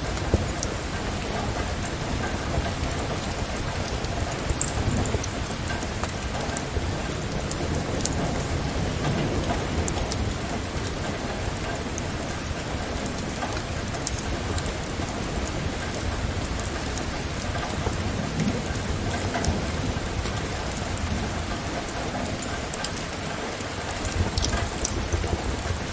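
Steady rain falling, with a low rumble of thunder underneath and scattered sharp crackles from a wood fire.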